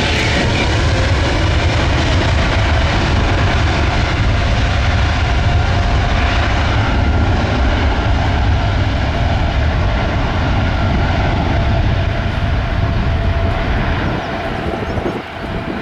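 Jet engines of a Boeing 787-8 Dreamliner running at high power: a loud, steady rumble with a few steady tones above it, easing off near the end.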